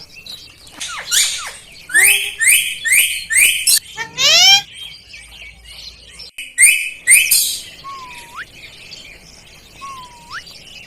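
Pet parrot calling: a run of short, rising screeches and chirps in quick clusters, then two thin whistles that dip and then sweep sharply up.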